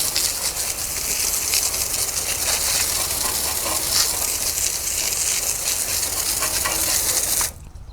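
Water spraying hard onto a car, a steady hiss that cuts off suddenly near the end.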